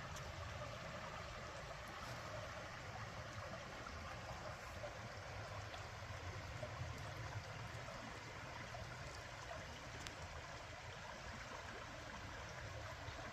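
Creek water flowing, a steady even rushing hiss with a low rumble underneath.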